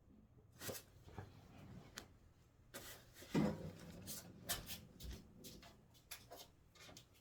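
Irregular knocks, thuds and clatters inside a building, like furniture, drawers or objects being moved and set down. The loudest is a heavy thud about three and a half seconds in. It is the kind of late-night indoor noise the title complains of.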